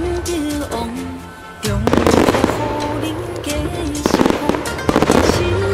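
Aerial fireworks bursting and crackling in rapid volleys over loud recorded music. The bursts ease off about a second in, then a dense volley starts just before two seconds in.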